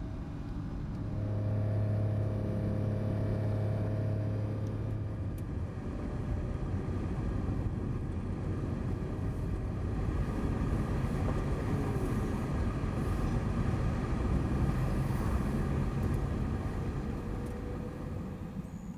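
A road vehicle running: steady engine hum with road noise, fading near the end.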